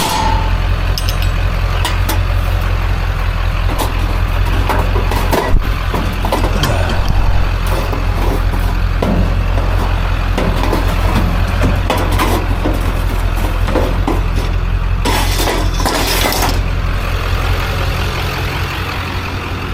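Vehicle engine idling with a steady low hum under scattered clanks and knocks of scrap steel pieces being handled. There is one sharp loud hit about five and a half seconds in, and a hissing burst about fifteen seconds in.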